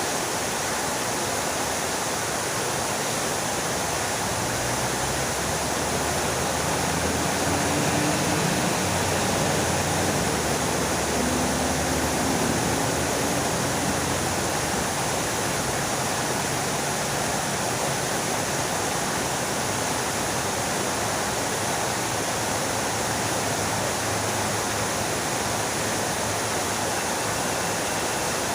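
Fountain water splashing in a steady, even rush, swelling a little for several seconds in the first half.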